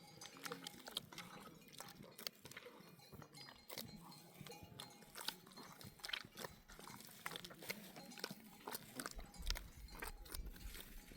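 Sheep grazing close by: faint, irregular crunching and crackling of grass being torn and chewed, with the light clink of sheep bells.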